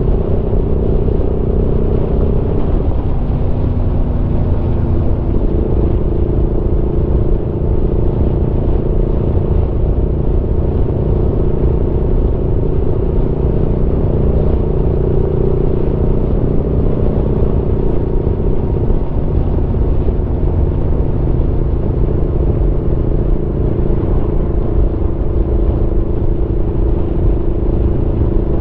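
Aprilia Tuono V4's V4 engine running under way at a steady cruise, its note dipping briefly a few seconds in and then holding steady.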